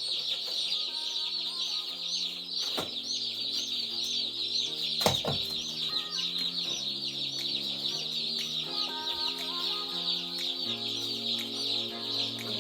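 A brood of day-old meat-bird chicks peeping constantly, many high chirps overlapping, with soft background music of held notes underneath and a sharp knock about five seconds in.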